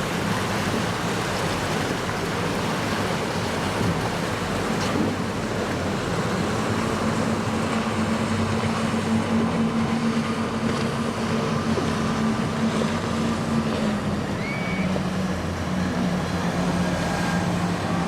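Boat engine running as a powerboat passes, a steady drone that drops slightly in pitch about four-fifths of the way through, over a constant rush of wind and water.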